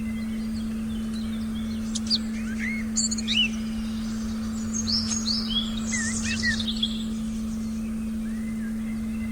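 Forest birds chirping and calling in short, quick phrases, busiest from about two to seven seconds in. Beneath them runs a steady low drone tone and a soft rumble.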